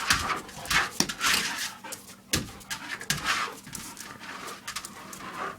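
A dog panting, with a few sharp knocks among the breaths.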